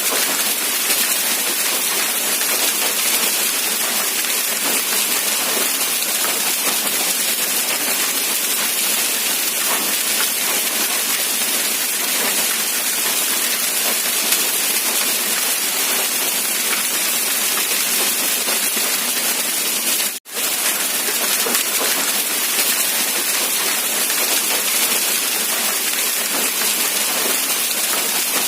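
Rain falling steadily, an even hiss with no let-up, cutting out for a split second about two-thirds of the way through.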